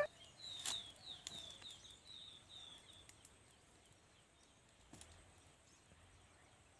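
Faint bird song: a run of about eight short, falling whistled notes over the first three seconds, spacing out as it goes, with a few sharp crackles of the wood fire, one near the start and one about five seconds in.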